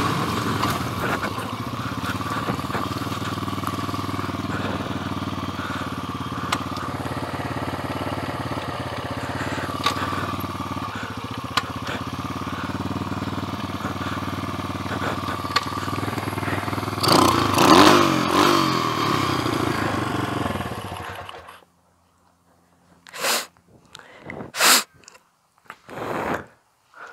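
Single-cylinder four-stroke engine of a 140cc pit bike running steadily, swelling briefly louder, then cutting off suddenly about three quarters of the way through as it is shut down. A few short bursts of noise follow in the quiet.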